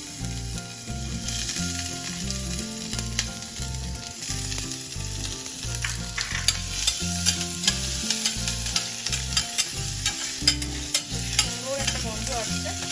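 Chopped ginger and garlic sizzling in a little hot oil with whole spices in a pressure cooker, stirred with a metal spoon that clicks and scrapes against the pot, the clicks coming more often in the second half.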